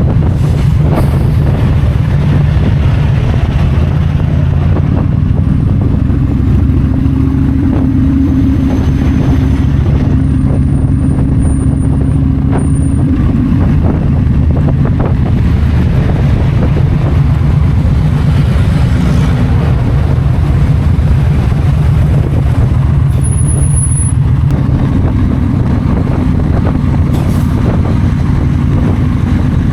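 Yamaha V Star 1300's V-twin engine running steadily at highway cruising speed, with wind rushing past.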